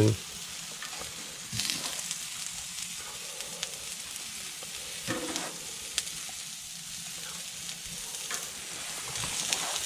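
Chopped onion and garlic frying with a steady sizzle in a pan on a wood stove. A few brief knocks come as sausages are put into the pan.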